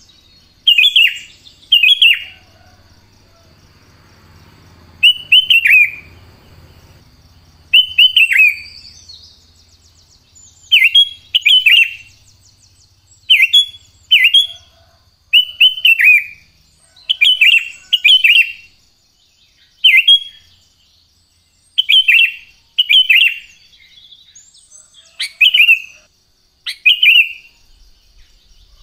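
Sooty-headed bulbul (kutilang) singing: loud short phrases of two or three quick falling whistles, repeated every one to two seconds.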